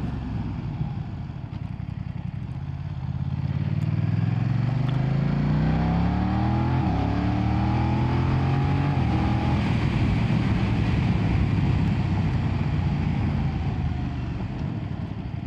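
BMW F900R's 895cc parallel-twin engine accelerating under way. Its pitch rises, dips briefly at a gear change about seven seconds in, climbs again, and then settles into steady cruising.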